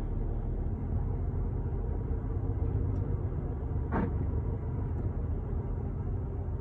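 Steady low rumble of a truck's engine and road noise heard from inside the cab while driving, with one short sharp sound about four seconds in.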